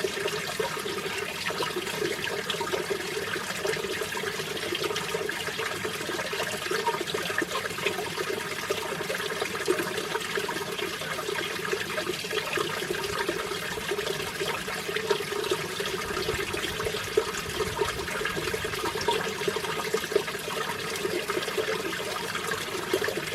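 Mountain stream water flowing with a steady, even rushing.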